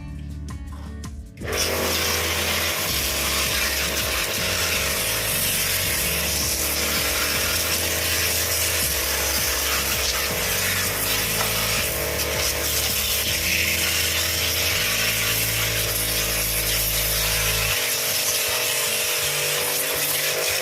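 Background music under a loud, steady machine noise, a hiss with a hum in it, that starts suddenly about a second and a half in.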